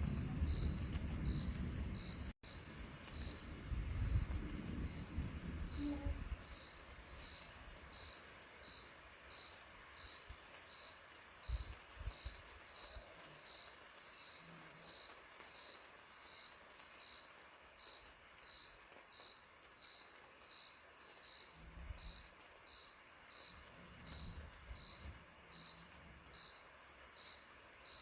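A cricket chirping steadily, a short high chirp about one and a half times a second. A low rumble fills the first six seconds, with a few brief low thumps later.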